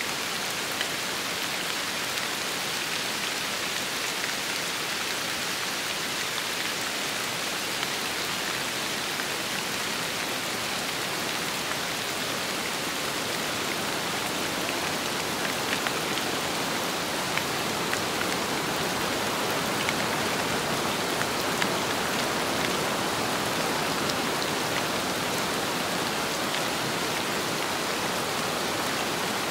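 Steady rain and wind with scattered drop ticks; the rush grows a little fuller past the halfway point.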